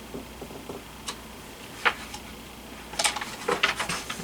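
Handling of a picture book: a few isolated short clicks, then a quick cluster of paper rustles and clicks near the end as a page is turned.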